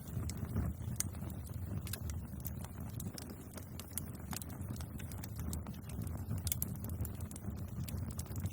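Bonfire crackling: irregular sharp pops and snaps of burning wood, several a second, over a steady low rumble.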